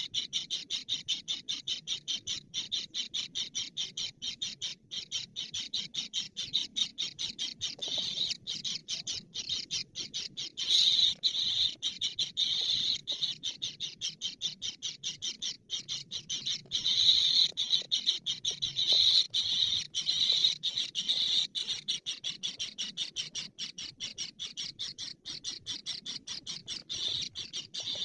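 A bird calling in a rapid, regular series of high chirps, about four to five a second without a break, louder for a stretch about ten seconds in and again in the second half.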